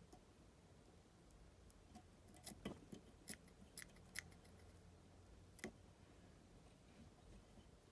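Small scissors snipping, about six short faint clicks in the second to sixth seconds, over near-silent room tone.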